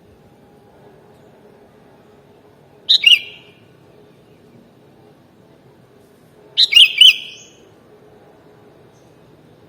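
Sooty-headed bulbul (kutilang) giving two short bursts of quick, chirping notes, about three seconds in and again near seven seconds, over a faint steady hum.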